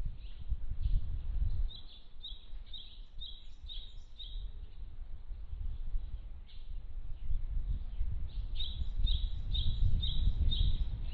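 A songbird singing a phrase of about six evenly repeated high notes, roughly two a second, given twice, about two and eight seconds in, with scattered fainter calls between. A steady low rumble runs underneath.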